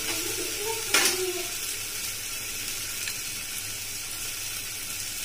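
Sliced onions and green chillies sizzling steadily in oil in a nonstick pan, with one sharp knock about a second in.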